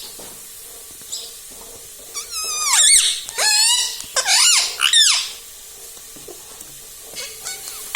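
Ringneck parrot giving a run of loud, high, squeaky calls with pitch swooping up and down, from about two to five seconds in.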